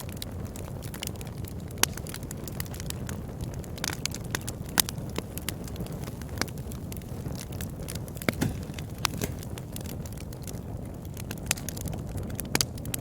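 Wood fire burning in a fireplace: frequent, irregular sharp crackles and pops over a low, steady rush of flame, a few pops louder than the rest.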